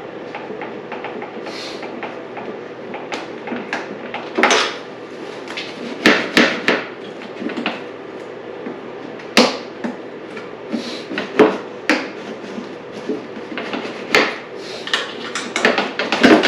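Scattered clicks, knocks and clunks of hand tools and dirt-bike parts being worked loose and handled, irregular, with a few louder knocks. A faint steady hum lies underneath.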